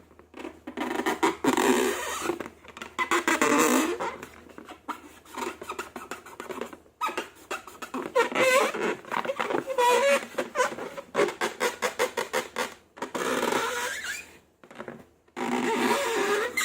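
Slime being squished and mixed by hand: dense sticky crackling and squelching with squeaky notes, in bursts broken by short pauses.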